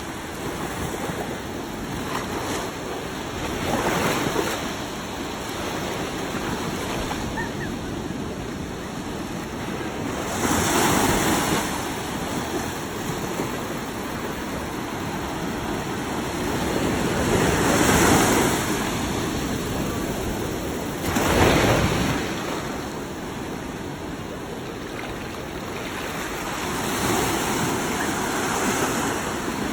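Rough Caspian Sea in a storm: waves breaking in surges every several seconds over a steady roar of surf. Strong wind blows over the microphone.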